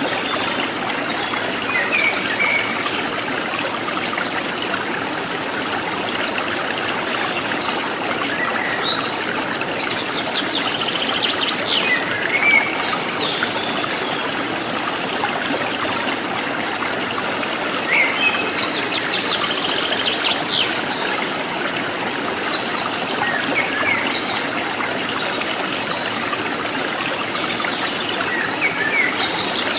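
Forest stream trickling and splashing steadily, with wild birds giving short high chirps and calls every few seconds.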